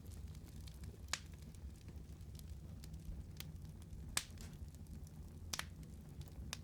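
Wood fire crackling: a low steady rumble of burning with scattered sharp pops, the loudest about a second in, about four seconds in and near five and a half seconds.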